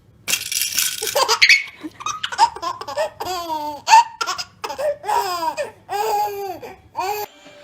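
Baby laughing hard. It opens with a breathy, hissing burst, then goes into a rapid string of squealing laugh bursts, each falling in pitch, which stops suddenly near the end.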